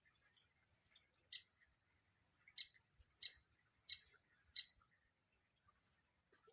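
A woodpecker giving sharp, single call notes, five in all, the last four evenly spaced about two-thirds of a second apart. Faint small bird chirps and a thin steady high whine carry on underneath.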